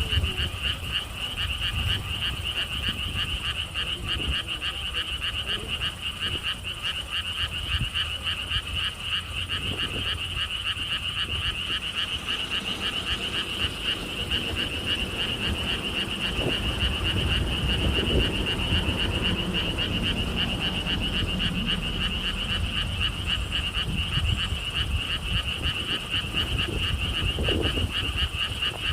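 A dense chorus of frogs calling in rapid, overlapping pulses, a continuous high trilling din, with wind rumbling on the microphone underneath.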